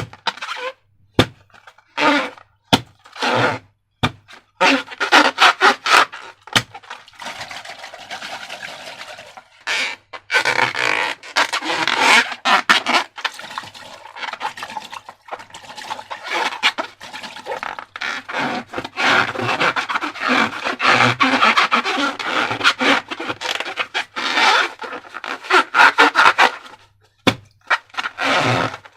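Slime being squeezed and worked by hand, making sticky crackling clicks and squelches in irregular runs with short breaks.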